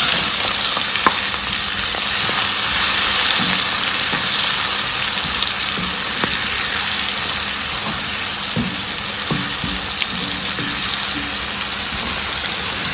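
Chopped onions sizzling loudly in hot curry-and-bay-leaf oil, the sizzle starting abruptly as they go in and then holding steady, with a few faint clicks.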